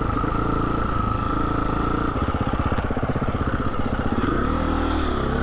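2020 Husqvarna 350 FE dirt bike's single-cylinder four-stroke engine running at low revs, with a brief rise and fall in revs near the end.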